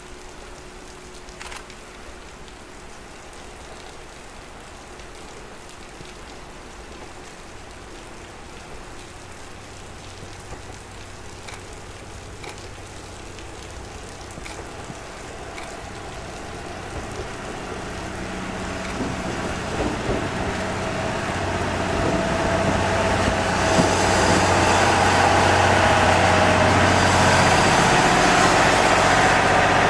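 Diesel railcar approaching, its engine and running noise growing steadily louder over about fifteen seconds until it is close and loud for the last few seconds.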